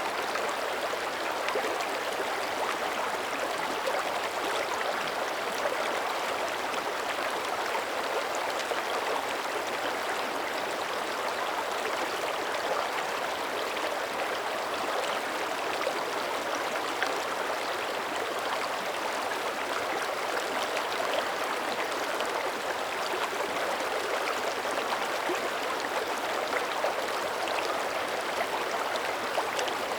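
Small mountain creek running steadily over stones: a continuous, even babble of flowing water.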